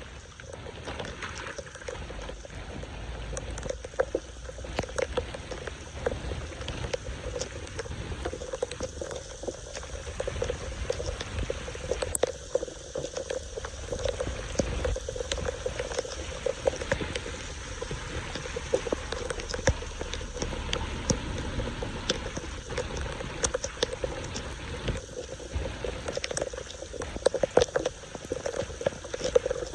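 Floodwater running and gurgling into an unclogged street storm drain, with many small splashes and sloshes throughout.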